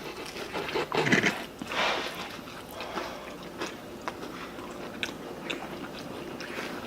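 People biting and chewing food close to the microphone, with wet mouth sounds, small crunches and scattered clicks; a couple of louder bites or scrapes come in the first two seconds.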